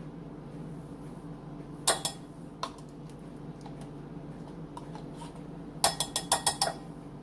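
A spoon clinking against a small bowl while minced garlic is added to honey: two sharp knocks about two seconds in, another shortly after, then a quick run of about six taps near the end, over a steady low hum.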